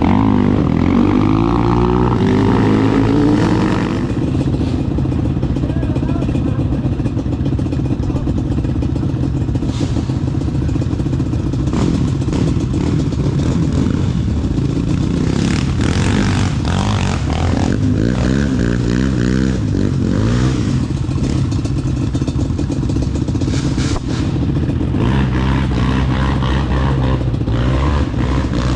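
Off-road vehicle engine running under load, its pitch rising and falling repeatedly as the throttle opens and closes.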